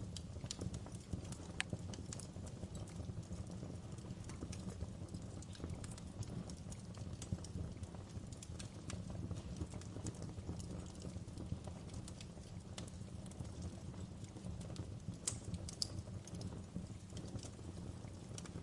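Wood fire in a fireplace crackling: irregular sharp pops and snaps, a few louder ones, over a steady low rumble of the flames.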